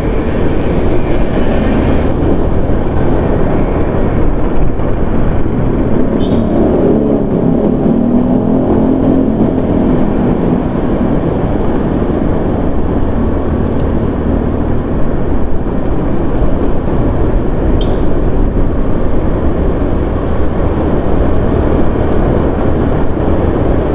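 Strong wind buffeting the microphone while riding through city traffic, with road and engine noise underneath. A wavering engine or vehicle tone rises out of it a few seconds in.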